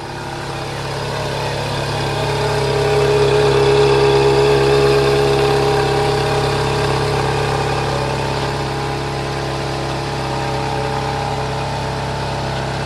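A car engine running steadily at a low, even speed, growing louder over the first few seconds and then holding.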